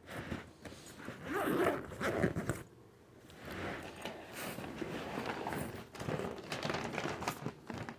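Irregular rasping, rustling handling noise in a series of strokes, with a short pause about three seconds in.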